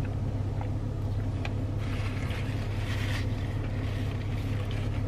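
Steady low hum of a parked car idling, heard from inside the cabin, with a brief soft rustle of noise about two to three seconds in.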